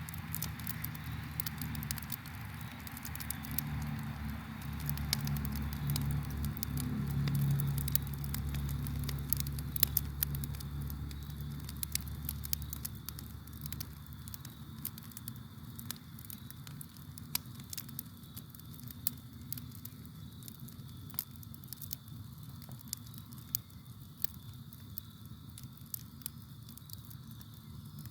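Wood campfire crackling, with many sharp pops and snaps, over a low rumble of flames that dies down about halfway through. A faint steady cricket chirr runs underneath.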